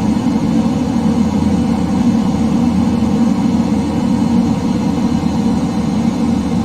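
F-15 jet engines running steadily: a constant low drone with a faint high whine on top.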